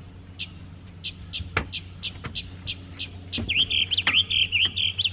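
A songbird chirping: short sharp high notes about twice a second, then a fast run of repeated warbled notes in the last second and a half. A few faint clicks fall in between.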